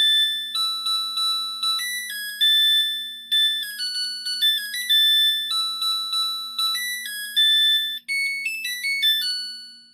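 A washing machine's end-of-cycle melody: a tune played in high electronic beeps, each note dying away, which fades out at the very end.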